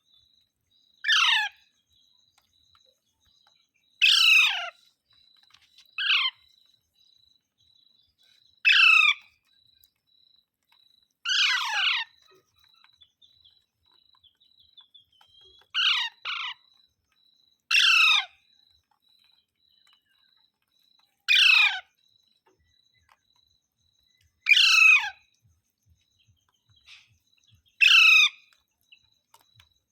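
Parrot giving about ten short, loud calls spaced a few seconds apart, each one falling in pitch.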